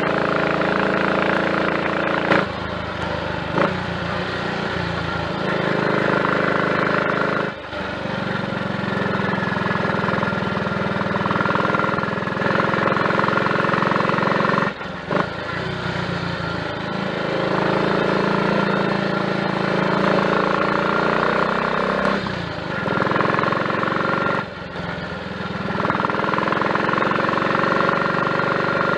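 Triumph Tiger Cub's 199 cc single-cylinder four-stroke engine running on the road. Its note drops briefly about five times, as the throttle closes for gear changes, then rises again. It runs without misfiring on its newly fitted carburettor slide, needle, needle jet and main jet.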